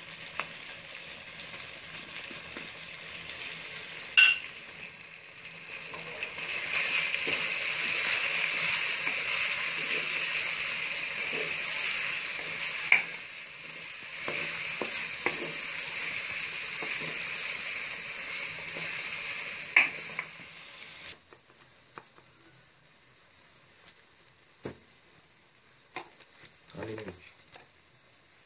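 Food sizzling in hot oil in a metal pan while it is stirred, with three sharp ringing clanks of the spoon against the pan. The sizzling gets louder about six seconds in and stops abruptly past the two-thirds mark, leaving a few faint knocks.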